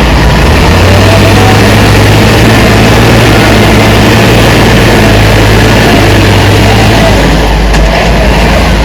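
Heavy diesel machinery engine running steadily and loud, with a constant low hum and dense mechanical noise.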